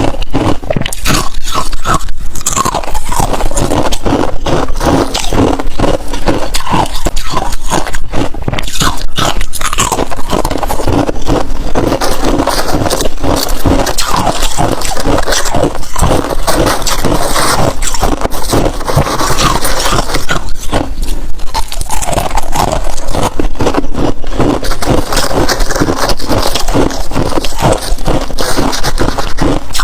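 Freezer frost being scraped and bitten: a close, unbroken run of crisp scrapes and crunches.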